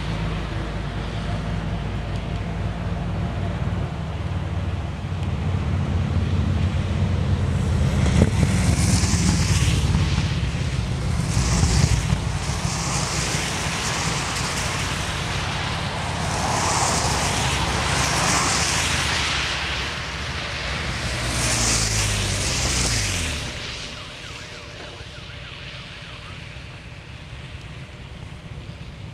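A vehicle driving, with engine rumble and wind and road noise. About 22 seconds in, the engine note falls as the vehicle slows, and the sound then drops to a much quieter steady hum.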